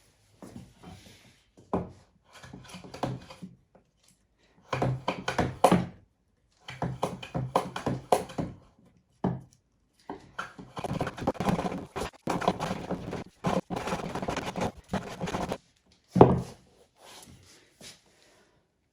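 Driftwood pieces being sanded and handled: rubbing strokes and knocks of wood, in short bursts broken by abrupt pauses, with a sharp knock about 16 seconds in.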